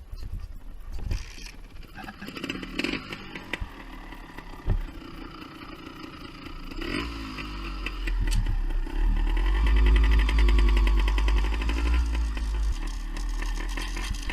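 Vintage Beta Synt trial bike's two-stroke engine running as it is ridden, growing louder about halfway through, with a rattling chain.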